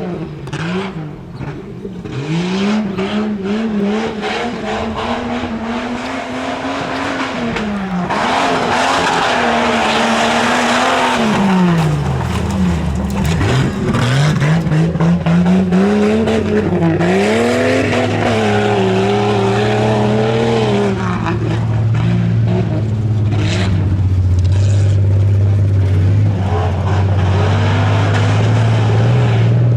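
A tuff truck's engine revving up and down over and over as it runs an off-road course. About twelve seconds in, a second engine joins with a steady, low, even running sound.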